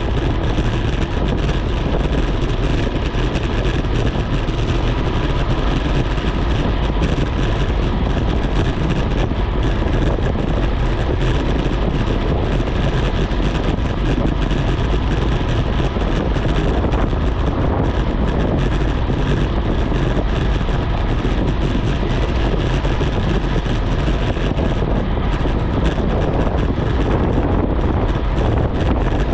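Steady wind rushing over the camera microphone as a bicycle descends a road at speed.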